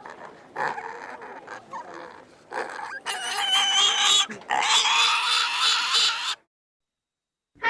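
Pigs giving short grunts, then loud high-pitched squealing for about three seconds that cuts off abruptly.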